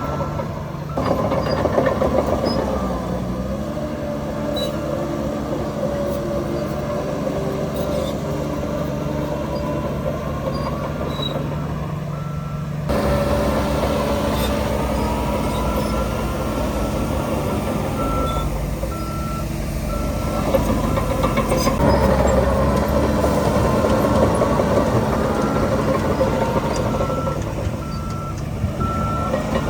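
Heavy diesel engines of a bulldozer and dump truck running steadily. A reversing alarm sounds in short, evenly repeated beeps in the second half.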